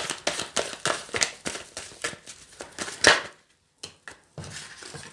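A deck of tarot cards being shuffled by hand: a quick run of soft card slaps and flicks, with a louder slap about three seconds in, then quieter handling.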